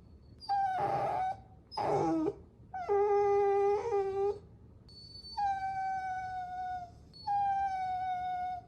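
Puppy whining: five high-pitched whines in a row, one sliding steeply down in pitch about two seconds in, and the last two long and held nearly level.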